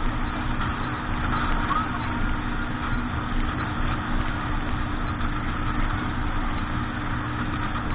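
Motorboat engine running at a steady speed, a constant low drone with a rushing hiss over it.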